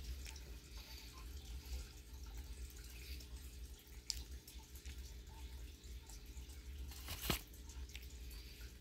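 Wet chewing and mouth sounds of a person eating a soft, microwave-warmed honey bun, over a steady low hum. There is a sharp click about four seconds in and a louder short click a little after seven seconds.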